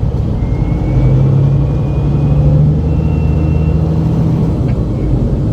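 Diesel engine of a loaded semi-truck pulling at low speed as the rig rolls slowly onto a weigh scale, heard from inside the cab; a faint high whine rises slightly in pitch over the first few seconds.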